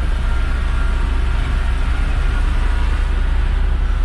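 Mercedes-Benz Atego dump truck's diesel engine running steadily under load, a deep low rumble heard from inside the cab.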